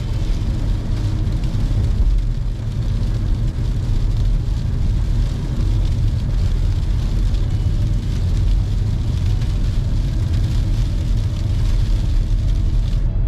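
Car driving: a steady low rumble of engine and tyres on the road, even throughout.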